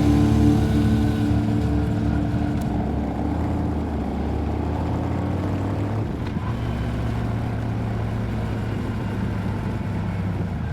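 Harley-Davidson Road King's V-twin engine running steadily while riding, a constant low drone. Rock music fades out in the first couple of seconds.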